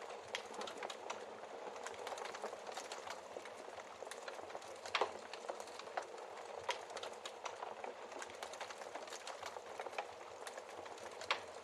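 Wood fire in a fireplace crackling: a steady hiss of flames with frequent small crackles and a few sharper pops, the loudest about five seconds in and near the end.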